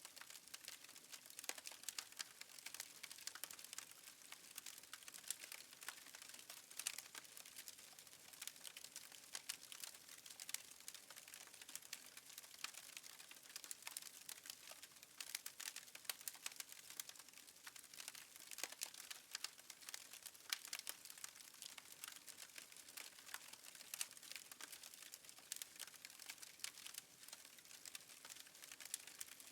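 Fireplace fire crackling faintly: quick, irregular little snaps and pops over a soft hiss.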